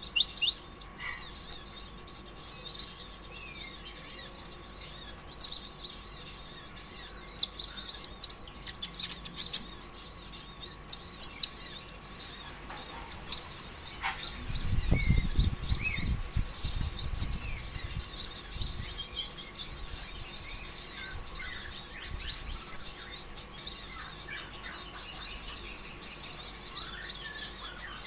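Kolibri ninja sunbird (konin ijoan) singing continuously in fast, high-pitched chirps and trills, a busy chattering song of the kind used as a lure to get other konin singing. A low rumble comes in briefly about halfway through.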